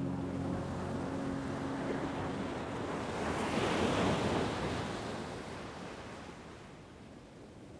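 An ocean wave rolling in and breaking, building to its loudest about four seconds in, then washing back and fading. A low steady hum runs under it for the first couple of seconds and then stops.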